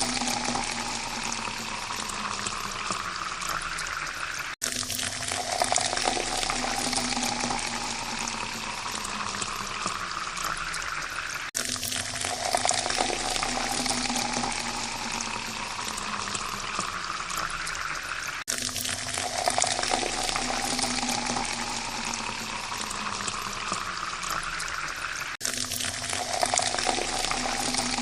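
Water pouring steadily into a glass, its pitch rising as the glass fills. The same pour repeats about every seven seconds, each one cut off by a brief dropout.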